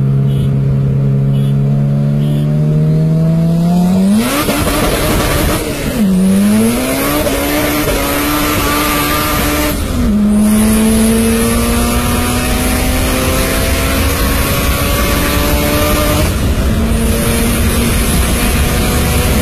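Honda Type R engine accelerating hard through the gears. Its pitch climbs steadily in each gear and drops sharply at upshifts about six, ten and sixteen seconds in. From about four seconds in, a loud rushing intake and wind noise joins the engine.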